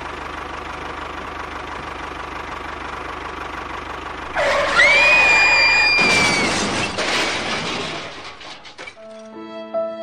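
A tractor engine sound runs steadily with a low pulsing rumble. About four seconds in, a loud high screech rises and holds, and a crashing clatter follows as the toy tractor overturns. Slow violin music begins near the end.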